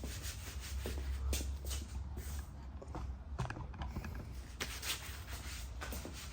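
Irregular light scrapes, taps and rustles from handling a styrofoam insulation panel, over a steady low hum.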